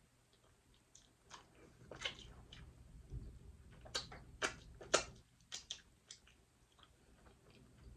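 Faint, close-miked chewing with scattered wet mouth clicks and lip smacks, a cluster of louder smacks about four to five seconds in.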